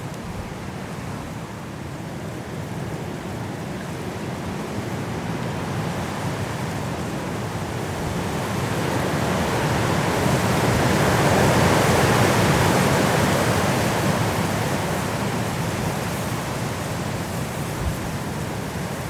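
High wind blowing through trees, rising to a strong gust about twelve seconds in and then easing off.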